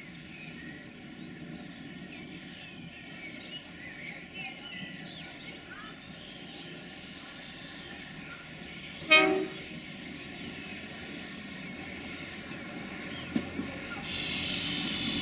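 Irish Rail 29000 Class diesel multiple unit approaching, with one short horn blast about nine seconds in. Its engine and wheel noise grows louder near the end as it draws into the station.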